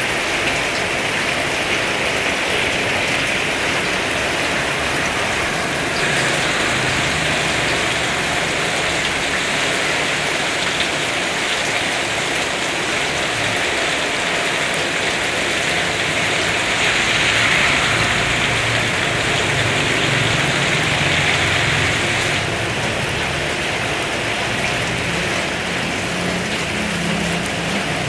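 Heavy rain pouring steadily onto surfaces, swelling slightly louder for a few seconds around the middle.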